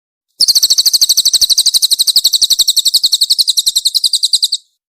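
Cililin bird singing one fast, high-pitched trill of rapidly repeated notes, about ten a second, lasting about four seconds.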